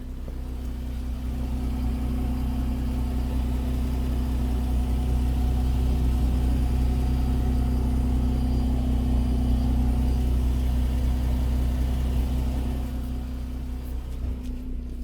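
Chrysler 200's 3.6 Pentastar V6 running through an aftermarket Corsa cat-back exhaust, a steady deep exhaust note that swells a little over the first couple of seconds.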